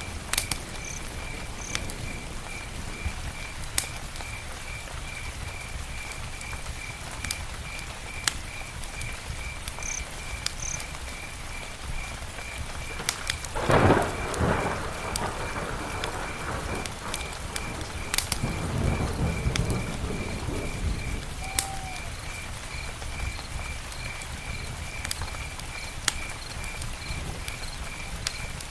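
Campfire burning: a steady crackle and hiss with frequent sharp pops. About halfway through comes a louder low rush of a second or two, and a softer one a few seconds later. An insect chirps evenly in the background, about twice a second.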